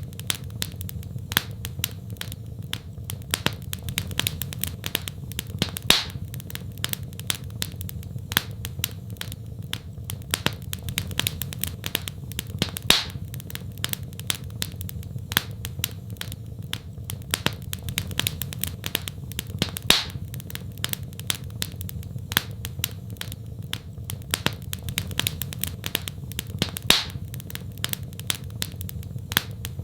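Wood fire in a fireplace crackling, with constant small snaps and a louder pop about every seven seconds over a steady low rumble.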